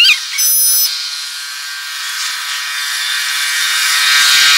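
Railroad crossing bell ringing as a freight train approaches, its noise growing steadily louder; a car passes over the crossing at the start.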